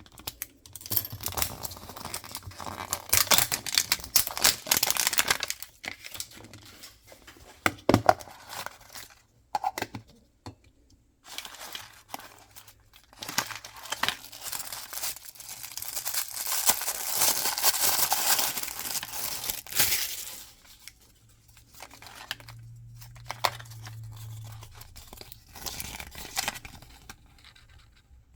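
Packaging being torn open and crinkled by hand, in two longer stretches of tearing and rustling with scattered clicks of handling between them.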